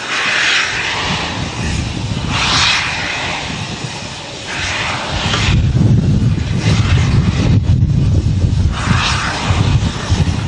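Steam locomotive working slowly: loud hissing bursts of steam a couple of seconds apart, then a deep rumble with uneven beats from about halfway in.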